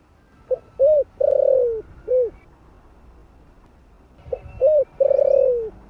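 Spotted dove cooing: two phrases a few seconds apart, each a short note, two quick rising-and-falling coos, then a long drawn-out coo that sinks in pitch, the first phrase closing with one more short coo. Faint thin chirps of smaller birds sound above it.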